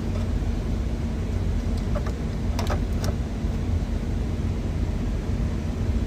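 Steady low rumble of an idling truck engine, with a few light clicks and clatters about two to three seconds in.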